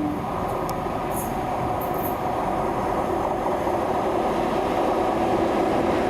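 Train running past, a steady rumble of engine and wheels on the rails that grows slowly louder.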